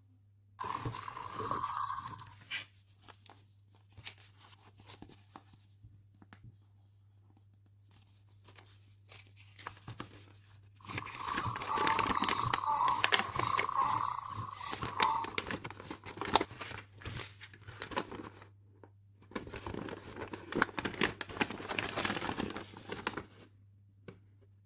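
Plastic packaging being handled: crinkling and tearing in several bursts, with quieter pauses between them.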